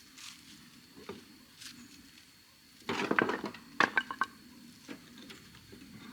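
Stones being handled: a brief scraping rush about halfway through, then a quick run of sharp clacks as stone knocks on stone, and one more knock later.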